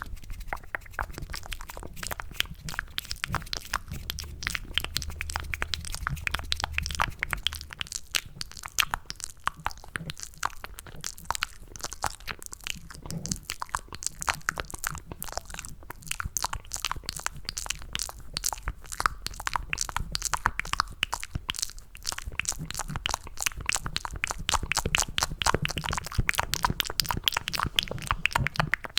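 Wet, cupped ASMR mouth sounds close to the microphone: rapid tongue and lip clicks and smacks imitating someone chewing macaroni and cheese, going on without a break.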